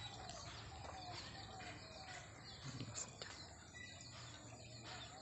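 Faint outdoor ambience with birds chirping in the background.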